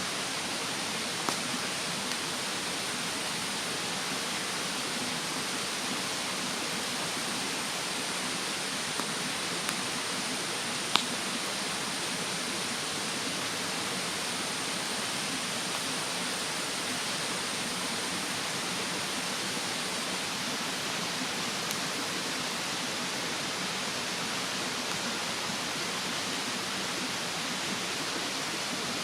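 Steady rush of a mountain stream, with a few sharp pops of the wood fire, the loudest about eleven seconds in. A thin, steady, high insect drone runs alongside and stops about two-thirds of the way through.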